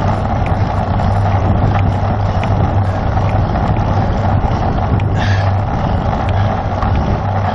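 Steady wind rush on the microphone and tyre noise from a road bicycle riding at speed, with a low hum throughout and a short hiss about five seconds in.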